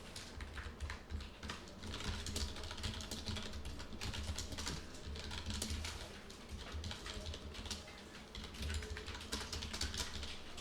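Typing on a computer keyboard: a steady run of quick keystrokes as code is entered.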